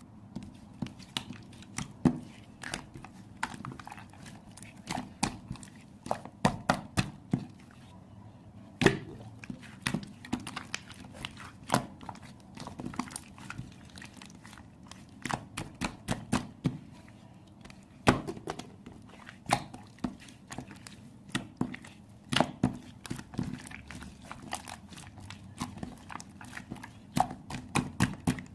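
Hands squeezing and poking slime, making many irregular sharp clicks and pops.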